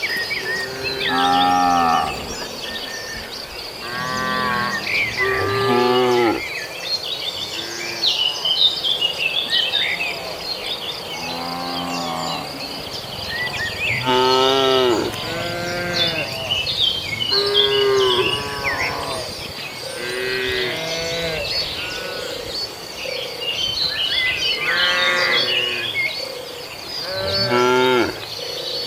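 A herd of cattle mooing again and again, one long call after another, several voices overlapping. Small high chirps run in between the calls.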